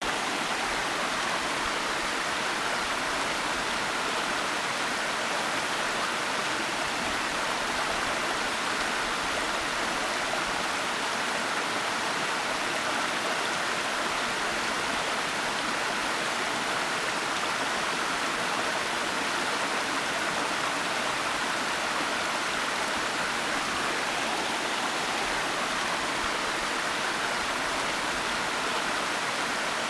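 A waterfall: a steady, even rush of falling water with no breaks or changes.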